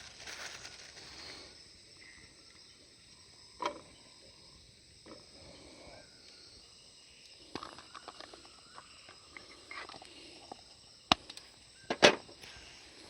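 Scattered small clicks and knocks, with a sharper knock a few seconds in and two more near the end, over a faint steady chirring of insects.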